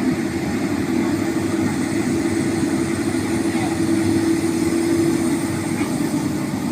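Heavy diesel machinery at a sand mine, an excavator or dump truck engine, running with a steady drone that swells slightly for a couple of seconds in the middle.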